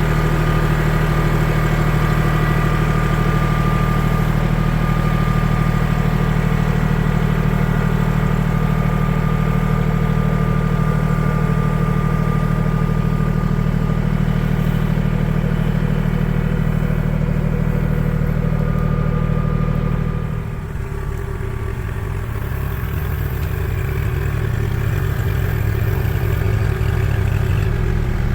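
An engine running steadily. About twenty seconds in, it drops suddenly to a lower, slightly quieter note and keeps running.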